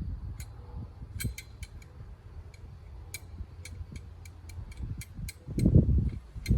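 Light metallic clicks and ticks from small metal parts and tools being handled, irregular and a few per second, over a low background rumble; a louder dull knock or rumble comes near the end.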